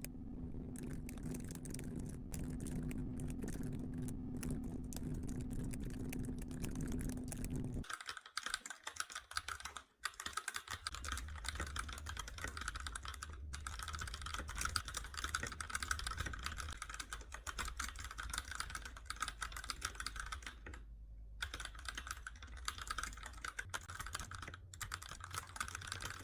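Computer keyboard being typed on fast and continuously, a dense run of clicking keystrokes with brief pauses. About eight seconds in, a low steady hum under the typing drops away and the clicking turns brighter.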